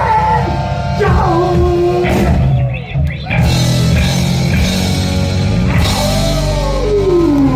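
Heavy metal band playing live: distorted electric guitar and vocal lines bending and sliding in pitch over bass and drums, with a brief break about three seconds in.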